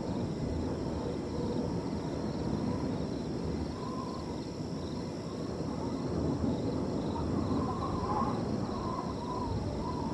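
Wind blowing through a field in a steady rush that swells and eases, under a steady high trilling of crickets, with a few short faint calls about the middle and near the end.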